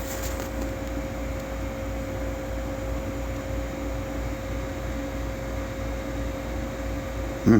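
Steady machine hum: an even hiss with a constant tone above a low, pulsing rumble, typical of a fan or air-conditioning unit running.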